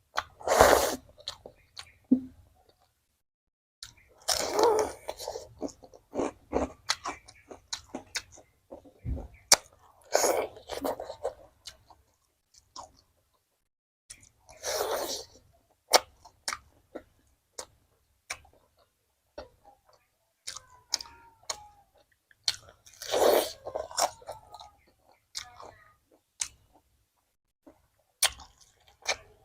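Close-miked eating: crunchy bites and chewing, with five or so loud noisy bursts a few seconds apart and many small clicks and mouth sounds between them.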